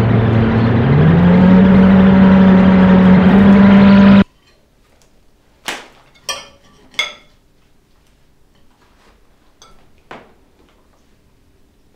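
A loud, steady low drone whose pitch rises about a second in, cut off suddenly; then cutlery clinking on plates, three light clinks about half a second apart and one more a few seconds later.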